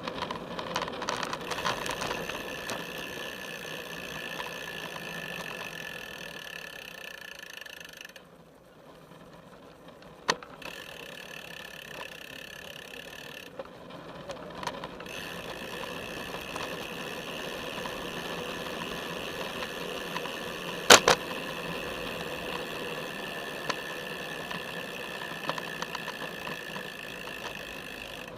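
Felt F75 road bike riding along a paved path, heard through a camera strapped to its top tube: a steady rolling and drivetrain rattle that thins out twice. Sharp knocks sound about ten seconds in and again near twenty-one seconds, the later one the loudest.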